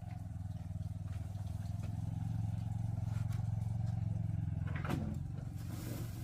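A small engine running steadily with a low, even drone that swells slightly in the middle, and a single sharp knock about five seconds in.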